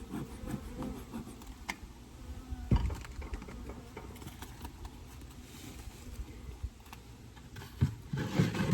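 Wooden Layens hive parts being handled: scattered knocks and scraping of frames and divider board, with one loud knock about three seconds in and a cluster of knocks near the end, over a low rumble.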